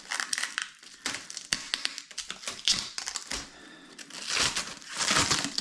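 Plastic protective film crinkling and crackling in irregular bursts as the roll is handled to find and lift its starting tab.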